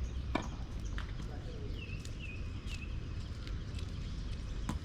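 Scattered sharp knocks of tennis balls being struck and bouncing on a court, four or so spread over a few seconds, with three short squeaks in quick succession about halfway through, over a steady low rumble.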